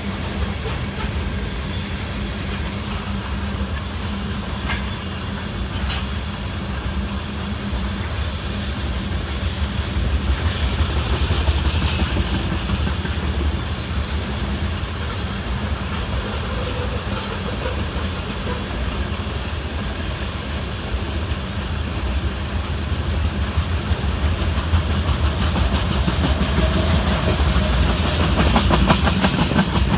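Freight train of railroad tank cars rolling past: a steady rumble of steel wheels on rail. It grows louder about ten seconds in and again toward the end, where a rapid, even clicking of wheels over the track comes through.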